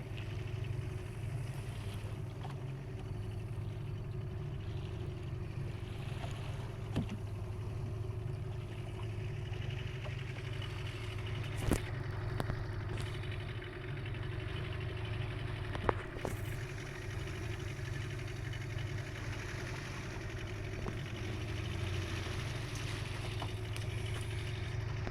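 A small boat's engine running steadily with a low drone, with a few sharp knocks at intervals.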